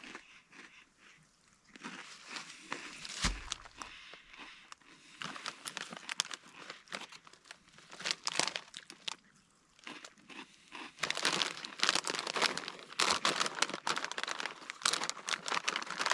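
Crinkling of a foil snack bag of Extra Flamin' Hot Cheetos being handled, with crisp crackles and crunches. The sound is sparse at first and turns dense and louder for the last few seconds.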